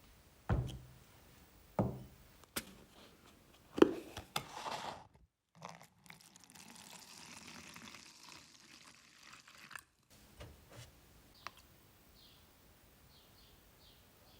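A series of knocks and thunks, about five in the first few seconds. Then a steady hiss runs for about four seconds, ending suddenly, with faint short chirps near the end.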